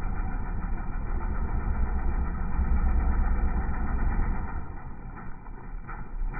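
Dirt bike engine running under load on a climb, muffled, swelling in the middle and easing off near the end.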